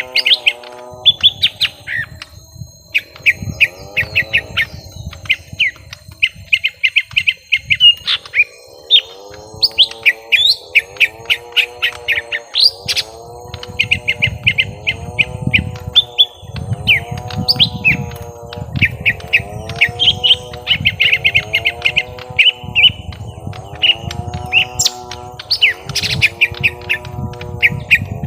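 Young lesser green leafbirds (cucak ijo mini) calling in a fight, rapid runs of sharp chattering chirps in quick bursts. Behind them a lower swooping note repeats about once a second.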